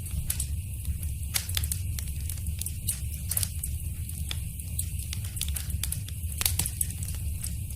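Wood fire burning in a fireplace: irregular sharp crackles and pops over a steady low rumble, with a cluster of louder pops near the end.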